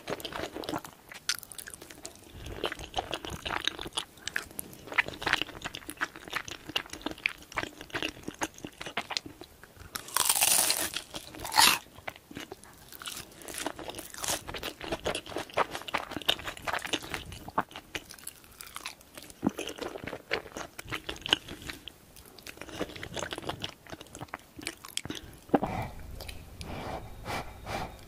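Close-miked eating sounds: wet chewing and crunchy bites of sauced fried chicken and creamy alfredo spaghetti, with irregular clicks and crackles, and one louder, longer stretch of sound about ten seconds in.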